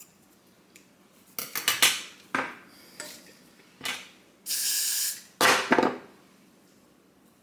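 Household objects being handled, clattering like dishes: a quick run of knocks and clinks, a short steady hiss about halfway through, then a few more knocks.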